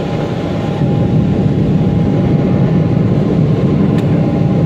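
Jet airliner's engines running at take-off power: a steady low noise with a thin constant whine. It grows louder about a second in.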